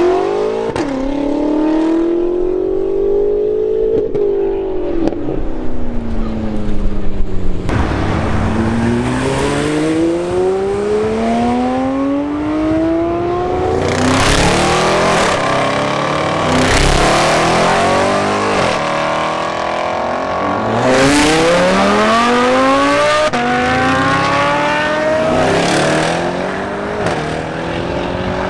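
Tuned car engines accelerating hard away, one after another: each engine climbs in pitch, drops at a gear change and climbs again, several times. A few short, loud noisy blasts stand out among the engine sound.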